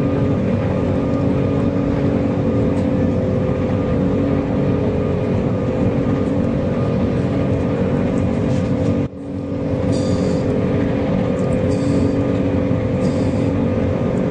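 Airliner's jet engines heard from inside the cabin at takeoff: loud, steady engine noise with a steady low hum and a higher whine, briefly dropping out about nine seconds in.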